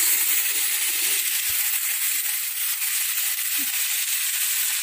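Lemon juice sizzling in hot oil with garlic, curry leaves and green chillies in a metal pot over a wood fire: a steady hiss.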